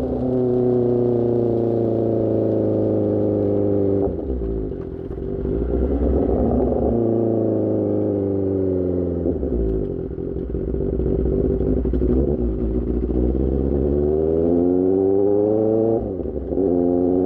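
Superbike engine through an Austin Racing GP1R aftermarket exhaust, heard from the rider's position. The engine note falls as the bike slows and breaks briefly for a gear change about four seconds in. It rises and falls through the middle, then climbs under acceleration, with another gear change near the end.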